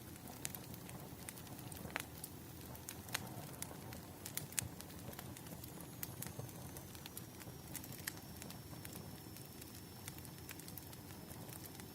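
Wood fire crackling: irregular sharp pops and snaps over a low, steady rustle of burning logs.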